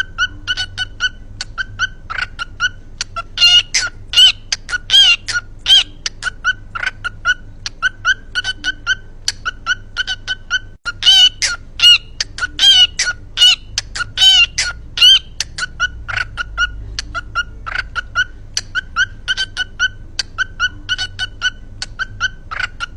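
Pet cockatiel singing: a steady run of short, clear chirps, about three a second, broken twice by louder warbling phrases.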